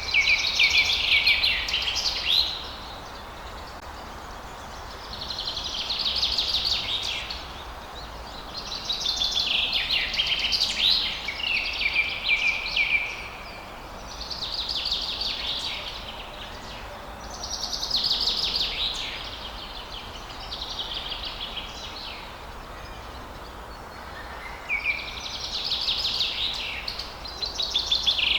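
Songbird singing a series of busy, rapid-note phrases, each two to three seconds long, coming every few seconds over a steady background hiss.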